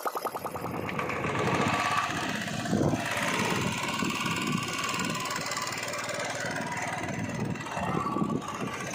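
Royal Enfield Classic 350 single-cylinder engine running, a little louder from about a second and a half in.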